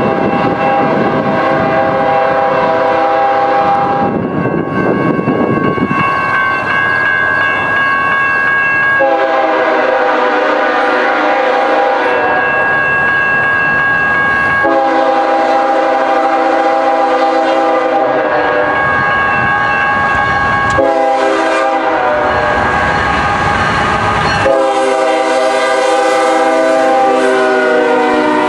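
Diesel locomotive's multi-chime air horn blowing a long run of loud blasts, each held for a few seconds, with a short stretch of train rumble about four seconds in.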